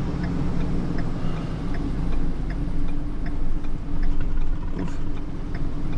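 Tow truck's engine running at low speed as it creeps backward, with a light, regular ticking about two and a half times a second.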